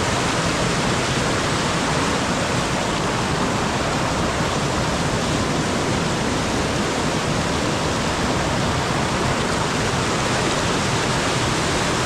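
Waterfall running full with heavy-rain runoff: a loud, steady rush of falling water that does not change.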